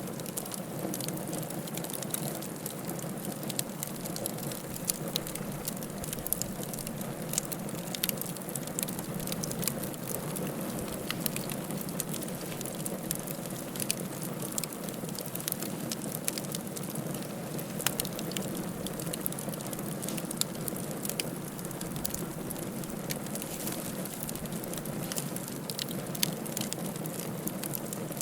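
Wood fire crackling: many small sharp pops and snaps, irregularly spaced, over a steady hiss.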